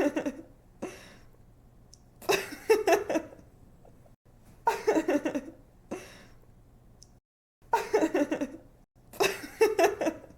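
A young woman laughing in about five short bouts a few seconds apart, each a quick run of bright 'ha' pulses.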